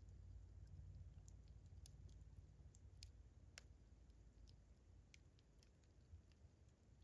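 Campfire crackling faintly: irregular sharp pops and snaps, a few each second, over a soft low rumble.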